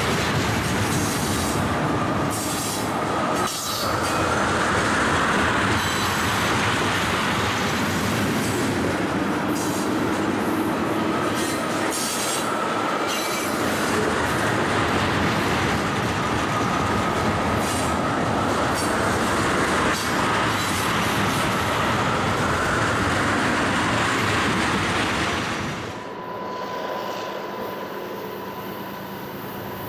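Freight train of tank cars rolling past close by: a steady rumble of steel wheels on rail, with clicks over the rail joints and a high squeal from the wheels that wavers up and down. About 26 s in, the sound cuts abruptly to a quieter steady hum with a faint high tone.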